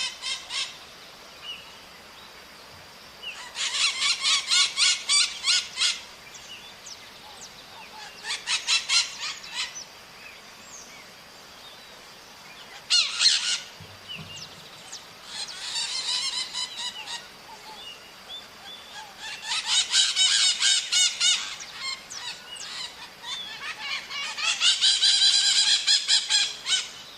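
Maritaca parrots screeching in bouts of rapid, repeated calls, six bouts of one to three seconds each, with short pauses between them.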